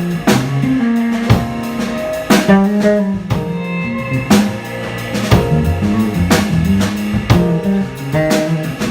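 Live jazz quartet playing: drum kit with regular kick and cymbal hits under walking bass, guitar and piano notes.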